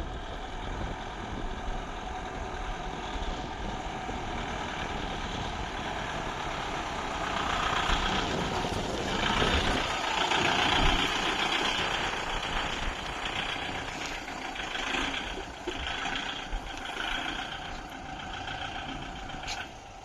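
Kubota MU5502 tractor's diesel engine running steadily, working harder and louder for several seconds in the middle as it pulls through deep mud.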